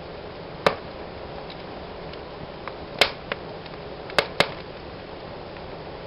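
Fire burning in a fireplace: a steady soft hiss of flames with about five sharp crackling pops, two of them close together near the middle and two more a second later, and a few fainter ticks between.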